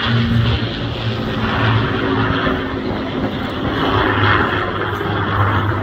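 Propeller aircraft engine running steadily overhead, its drone swelling and easing slightly.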